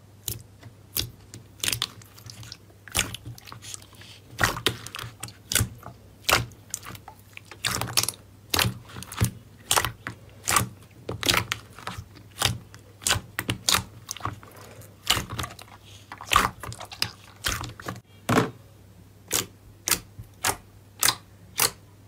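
Slime being squeezed and pressed, making a series of crisp crackling crunches about one or two a second. A faint low hum runs underneath.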